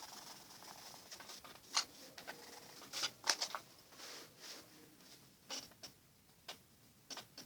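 Watercolor pencil strokes on paper: irregular short scratches and light taps. There is a steadier scratchy rub during about the first second.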